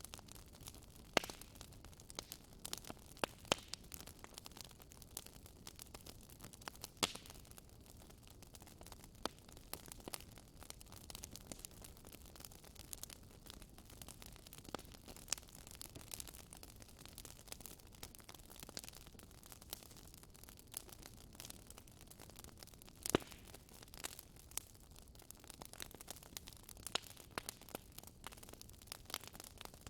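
Wood fire crackling in a fireplace: irregular sharp pops and snaps over a soft, steady hiss, with a few louder snaps scattered through.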